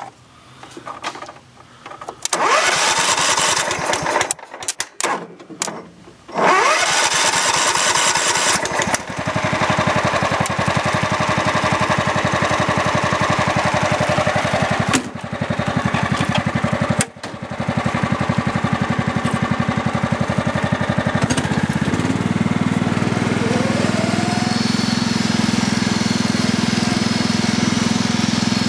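Kubota lawn tractor's engine being started: it fires about two seconds in, stumbles and cuts in and out a few times, then catches at about six seconds and runs steadily as the tractor drives off. Two brief dips in engine sound come in the middle, and near the end it settles to a lower, steady drone.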